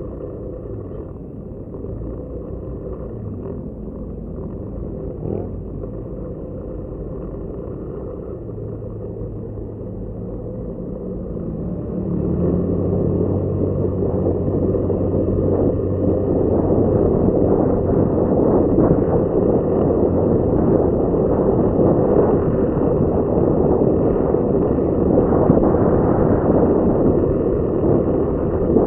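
Motorcycle engine running on the move, with wind buffeting the microphone. About twelve seconds in it gets louder and the wind noise thickens.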